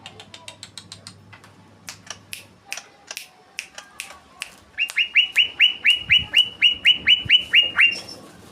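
Greater green leafbird (cucak ijo) singing. First comes a run of sharp, quick chips and clicks. About five seconds in, it breaks into a rolling series of around fifteen fast, evenly spaced downslurred whistles.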